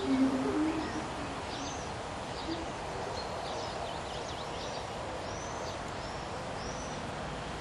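Birds calling outdoors: a few low cooing notes in the first second, then thin, high chirps and whistled notes through the middle, over a steady background hiss.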